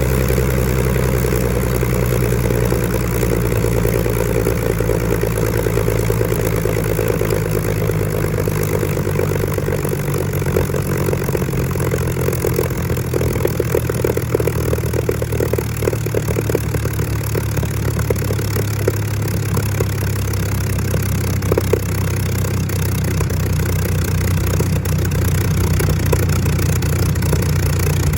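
Rolls-Royce Griffon V12 engine of a Supermarine Spitfire Mk XIV running steadily at low power on the ground. Its note shifts slightly about halfway through.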